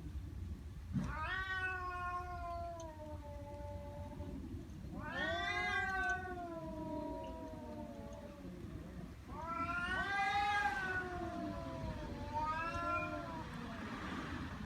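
Angry cat's threat yowls, a long drawn-out 'wauuuu' given four times, each call rising in pitch and then slowly sliding down, the last one shorter.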